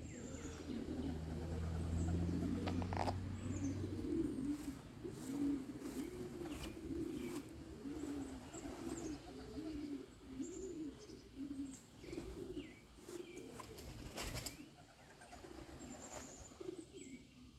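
Pigeons cooing over and over in a steady run of low calls. A low hum sounds under them for the first few seconds, and there are a few sharp clicks.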